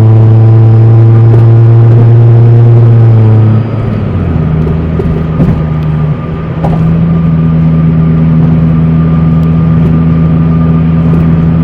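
Car engine held at steady high revs, dropping to a lower steady speed about three and a half seconds in and holding there; loud.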